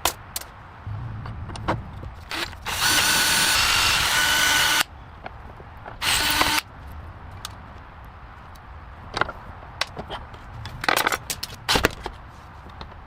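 Handheld power tool with a drill-like whine, run in two bursts: about two seconds, then half a second. Scattered clicks and knocks sound between them.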